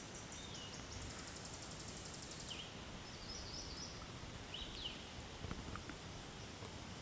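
Small songbirds calling in the treetops: a rapid high trill during the first couple of seconds, then scattered short chirps and whistled notes, over a low steady outdoor rumble.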